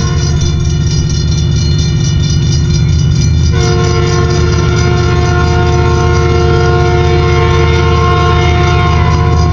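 A train horn sounding its chord over the heavy rumble of a train passing close by. One blast cuts off just after the start, and a second, long blast begins about a third of the way in and holds until near the end.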